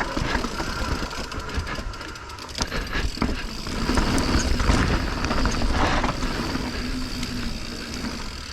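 Mountain bike rolling down a rocky technical trail: tyres over rock and dirt, with frequent knocks and rattles from the bike over a steady low rumble.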